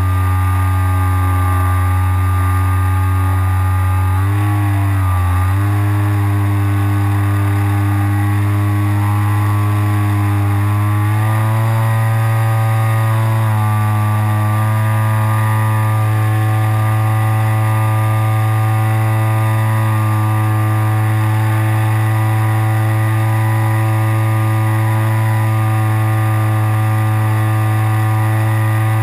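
RC glider's onboard motor and propeller running steadily, recorded from on board the plane, with a drone that wavers briefly about four seconds in and steps up in pitch about eleven seconds in as the throttle changes.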